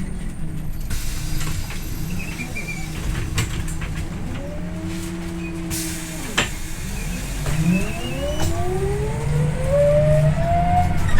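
Scania OmniLink I city bus engine and drivetrain running under way, with a low steady rumble and a whine that rises and falls with the revs. It climbs and settles in the middle, then climbs again steadily toward the end as the bus accelerates, and drops suddenly at a gear change. A single sharp click is heard about halfway through.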